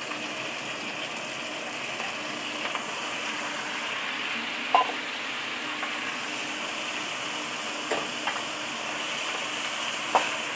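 Squid pieces sizzling steadily in hot oil in a wok, stirred with a wooden spatula that knocks sharply against the pan a few times.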